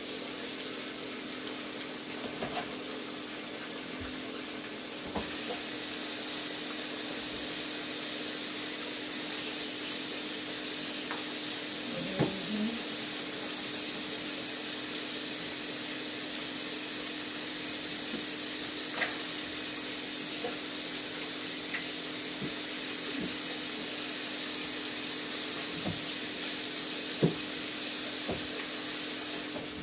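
Steady hiss of catfish frying in hot oil, with a low steady hum under it and a few light clicks and knocks now and then. The hiss grows a little brighter about five seconds in.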